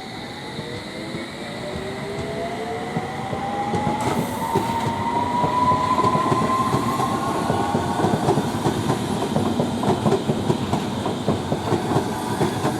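London Underground S7 Stock train pulling away from a standstill at a signal, its traction motors giving a whine that rises in pitch over the first eight seconds or so as it gathers speed. Wheel clatter on the rail joints grows louder as the train moves.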